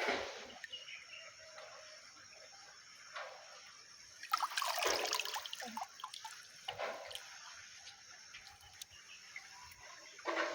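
Water splashing and dripping in a few short bursts, the longest and loudest lasting about a second about four seconds in.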